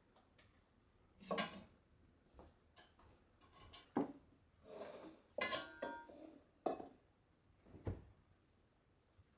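Dishes and cutlery clinking and knocking as they are handled: about six separate knocks, one ringing briefly about five and a half seconds in.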